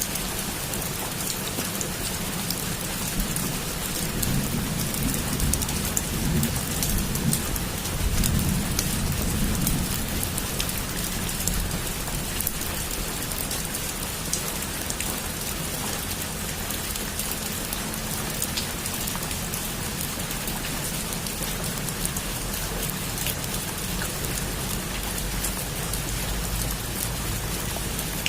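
Heavy rain falling steadily, with many fine drop ticks. A low roll of thunder rumbles for several seconds, starting a few seconds in.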